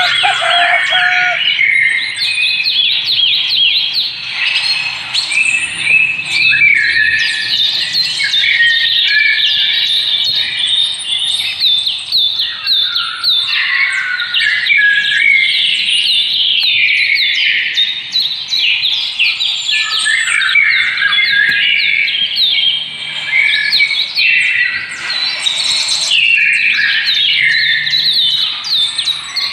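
Many small birds chirping at once, a dense, continuous chorus of quick, overlapping chirps that slide down in pitch.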